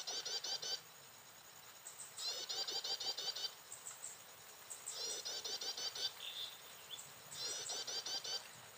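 Prinia (ciblek) song: bursts of rapid, high, repeated chirps, each about a second long, coming four times at roughly two-and-a-half-second intervals.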